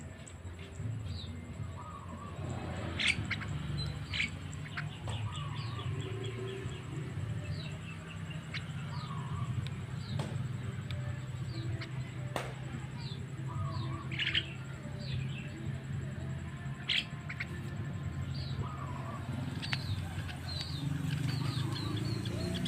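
Javan myna (jalak kebo) calling in a string of short chirps and whistles, with a few sharp clicks and a steady low hum underneath.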